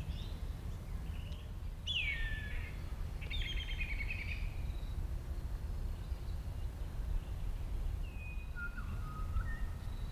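Wild birds calling outdoors: short whistled and warbling phrases, some gliding down in pitch, about two seconds in, again around three to four seconds, and a few more near the end. A steady low rumble runs underneath.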